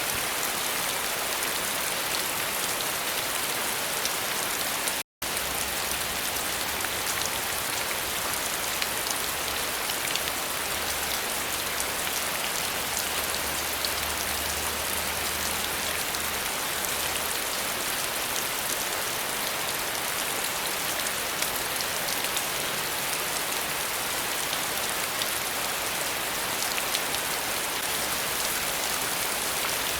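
Steady rain falling on a surface, an even hiss with many single drops ticking through it. The sound cuts out completely for an instant about five seconds in.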